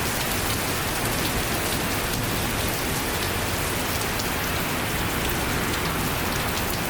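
Heavy rain pouring down steadily, a dense even hiss with scattered individual drops ticking through it.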